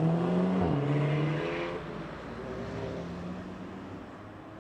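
Audi car accelerating away, its engine note climbing, then dropping briefly at a gear change under a second in. The engine then holds a steadier note and fades as the car drives off.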